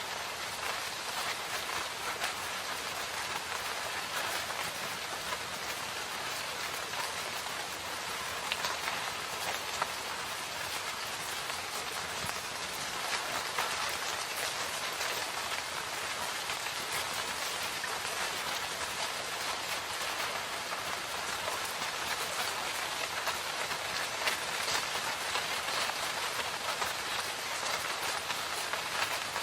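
Steady rain falling in a forest, an even hiss of drops with many small individual drops ticking on surfaces.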